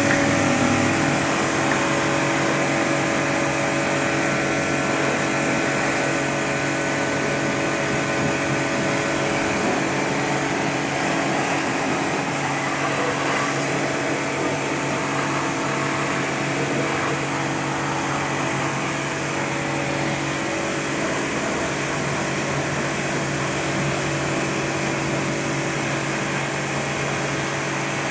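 Pressure washer running steadily, its motor-driven pump humming under a hissing spray of water.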